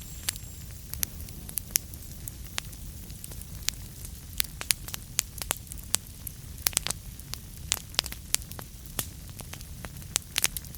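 Wood fire burning in a fireplace: a steady low rumble of flames with irregular crackles and sharp pops, a few of them loud.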